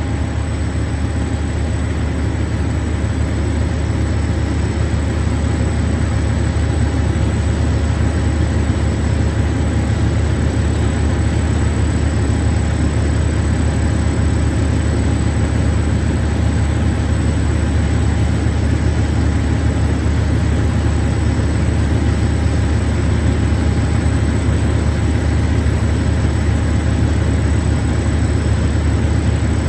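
Steady low rumble of an idling engine, unchanging throughout, with a faint constant whine over it.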